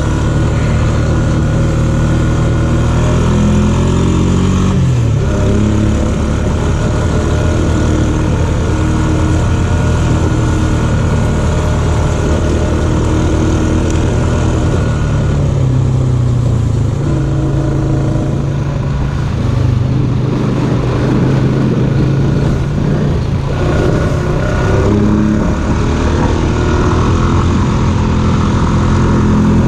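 ATV engine running under load, its pitch rising and falling repeatedly as the throttle is worked, while the quad pushes through a slushy, thawing trail.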